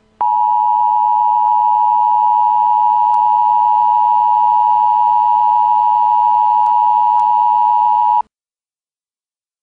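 Emergency Alert System attention signal: a steady two-tone alarm of 853 and 960 Hz sounding together. It holds unchanged for about eight seconds and then cuts off suddenly. It announces that an emergency alert message follows.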